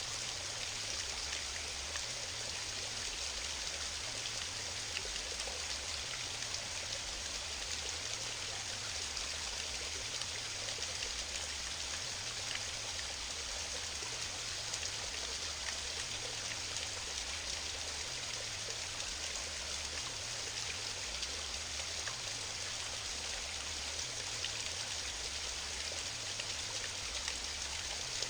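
Waterfall splashing, a steady, unbroken rush of falling water.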